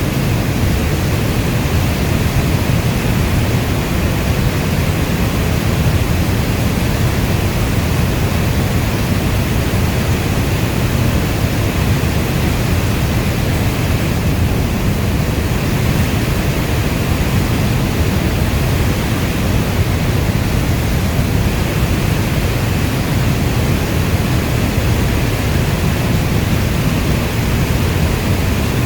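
Steady heavy rain: a dense, even rush of noise, strongest in the low range, with no single drops or thunder standing out.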